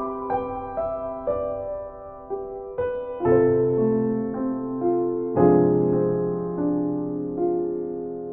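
Slow, gentle solo piano music: single notes ringing over held chords, with deeper bass chords coming in about three seconds in and again a couple of seconds later.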